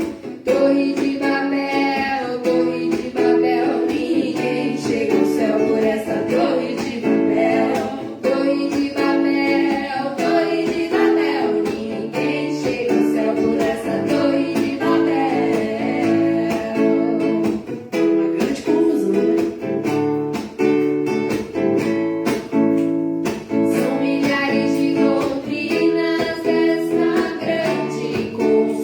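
Acoustic guitar strummed steadily while a voice sings a song.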